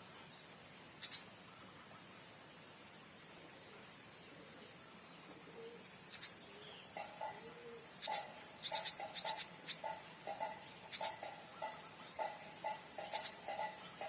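A steady high-pitched insect drone, like a chorus of crickets, runs throughout. Over it a bird gives short, sharp, shrill chirps now and then, several in quick succession about nine seconds in. From about seven seconds a rapid low pulsing call repeats several times a second.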